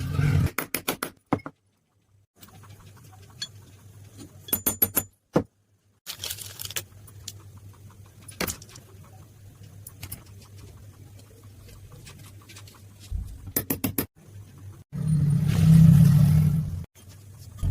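Metallic clicks and taps of tools on small metal parts, in short bursts broken by abrupt cuts, over a steady low hum. About two seconds before the end, a louder low hum comes in.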